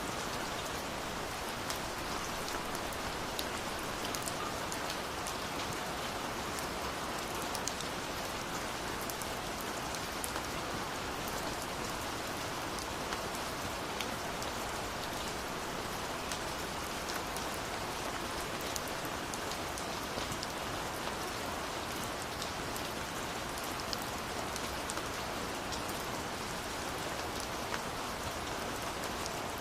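Steady rush of a waterfall, with the sharp, scattered crackles and pops of a burning wood fire over it.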